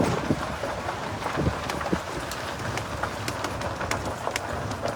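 A small vehicle, likely the sanctuary golf cart, moving slowly along a rough, overgrown track. Its steady rolling noise is broken by frequent sharp clicks and rattles, typical of brush and twigs catching and snapping against it.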